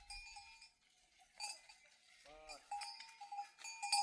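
Bells on grazing livestock clinking and ringing irregularly, busier in the second half.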